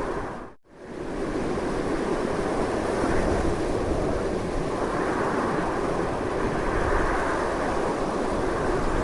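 Strong wind blowing in a steady rushing noise with a deep low rumble. About half a second in it drops out almost to silence for an instant, then swells back up.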